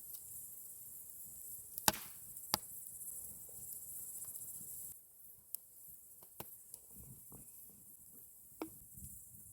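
Campfire crackling: burning wood snapping in a few sharp pops. The two loudest come about two seconds in, and fainter pops follow in the second half.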